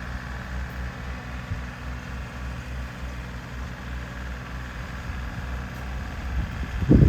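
An engine idling steadily with a low, even hum. A low thump comes near the end.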